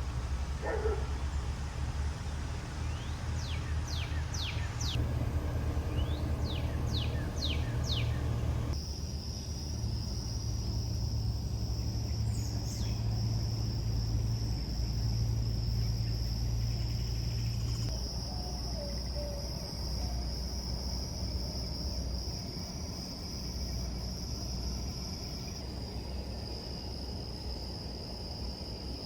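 Outdoor nature sounds: for the first nine seconds or so a bird calls in runs of quick downward chirps. After that a steady high insect drone of cicadas or crickets takes over and holds, with a low rumble underneath throughout.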